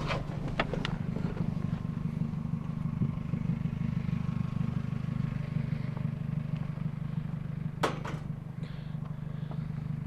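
Car engine idling steadily, with a few sharp clicks and knocks near the start and one more about eight seconds in.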